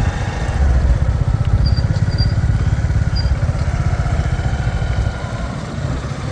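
Motorcycle engine running with a rapid low putter as the bike is ridden, getting a little quieter about five seconds in.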